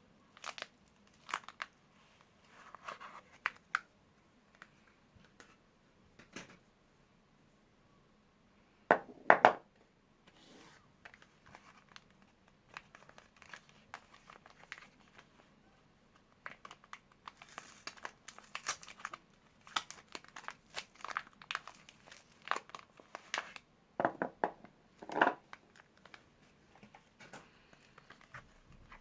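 Soap bar wrappers being handled and torn open: intermittent crinkling and tearing, with a couple of louder rips about nine seconds in and near the end.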